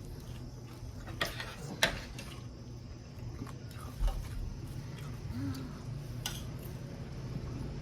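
Cutlery clinking against dishes: three sharp clinks, with a soft knock between them.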